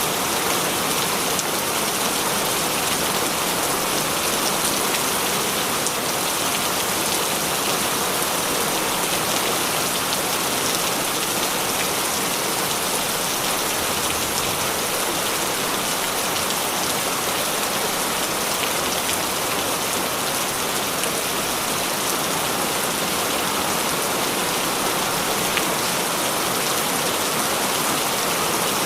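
Heavy rain falling steadily, a dense even hiss of raindrops with faint scattered patters and no let-up.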